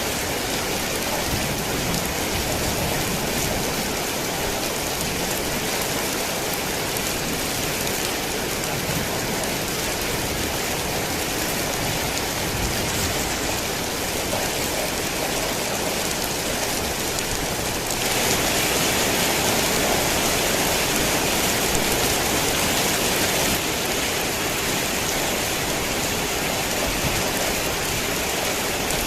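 Heavy rain falling steadily, a dense hiss of drops. It turns abruptly louder for about five seconds past the middle, then drops back.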